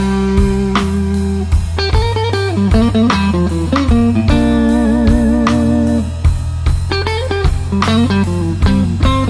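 A slow electric blues band plays an instrumental break. A lead electric guitar solos with held, bent notes and vibrato over bass guitar and drums.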